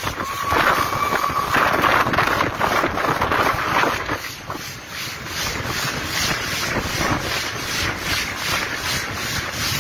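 Wind rushing over a microphone held out of a moving locomotive's cab window, mixed with the train's running noise. A brief steady tone sounds about half a second in.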